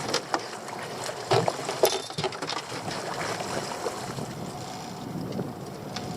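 Small boat on choppy sea: steady wind and water noise, with a few sharp knocks and clatters in the first two seconds.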